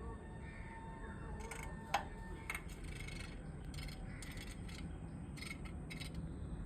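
A woodpecker pecking: about a dozen short sharp taps at an uneven pace, some close together and others nearly a second apart, over a steady low hum.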